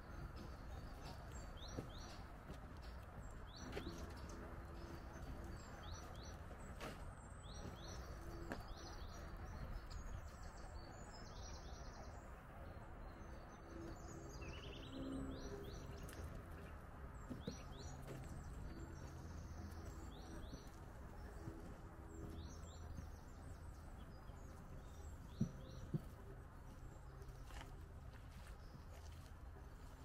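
Small birds chirping with many short, high calls repeated through the whole stretch, over a steady low background rumble. Two sharp clicks close together come near the end.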